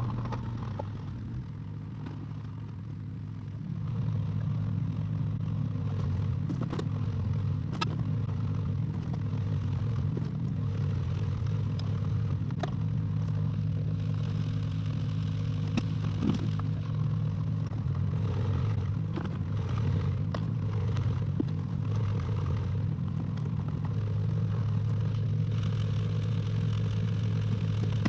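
Excavator engine running steadily, with scattered clanks and scrapes of the machine at work. The engine drops quieter about a second in and picks back up at around four seconds.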